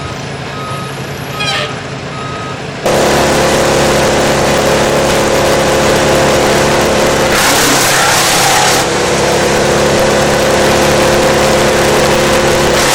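A wood chipper's diesel engine running at high speed, with three short beeps in the first few seconds before it gets much louder about three seconds in. A burst of harsher, hissing noise lasts about a second and a half near the middle.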